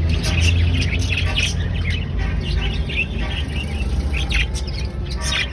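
Baby budgerigars chirping: many short, high chirps overlapping continuously, over a steady low hum.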